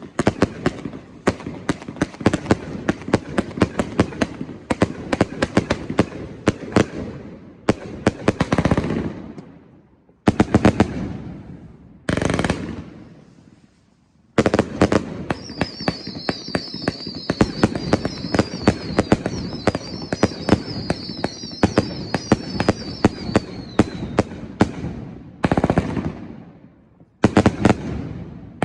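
Consumer firework cake firing in rapid runs of sharp crackling reports, broken by a few short pauses between sequences. From about 15 seconds in, a wavering high whistle runs alongside the shots for some eight seconds.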